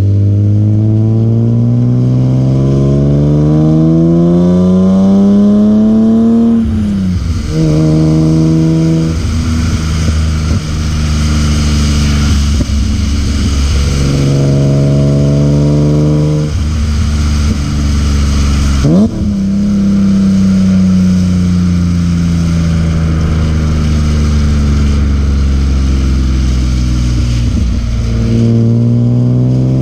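BMW E36 M3's S50B30 straight-six engine revving hard. It climbs in pitch for several seconds, drops back at lifts or gear changes and holds steady in between. About two-thirds of the way through there is one quick sharp rev blip, then a long slow fall in revs before it climbs again near the end.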